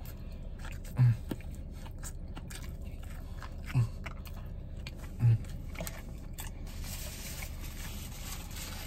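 A person biting and chewing a crispy fried chicken and bacon sandwich, with crunching and mouth clicks, and three short low hums of enjoyment about a second, four and five seconds in. The chewing dies away after about six and a half seconds, leaving a steady hiss.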